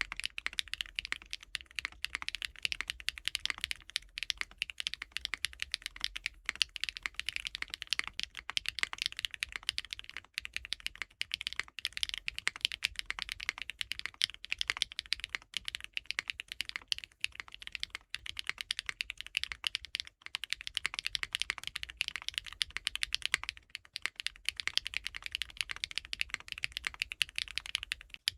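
Continuous fast typing on a Geim 65 custom 65% mechanical keyboard with Keygeek M3 linear switches and GMK Black Snail keycaps, a dense run of clacky keystrokes broken by short pauses about 10, 20 and 24 seconds in.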